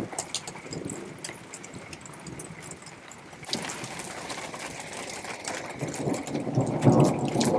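Rain falling, with many small sharp drop taps over a steady hiss, growing louder in the second half.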